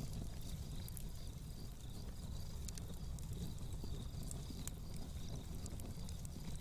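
Fireplace crackling: scattered, irregular sharp pops and snaps over a steady low rumble.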